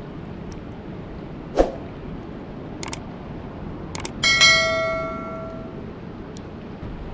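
A few knocks and clicks, then one struck metallic ring, bell-like, that dies away over about a second and a half, over a steady rushing noise.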